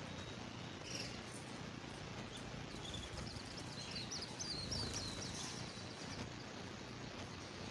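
Canary singing: a quick run of repeated high chirping notes in the middle, with a few fainter chirps before it, over a steady background hiss.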